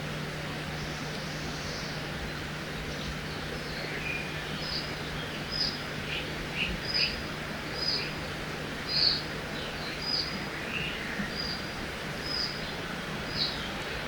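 Forest ambience by a river: a steady rush of flowing water with a songbird calling a run of short, high chirps, repeated about every second from about four seconds in.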